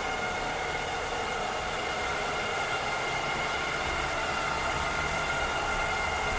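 Cleaning robot running steadily: an even rushing noise from its motor with a constant high whine of a few steady tones.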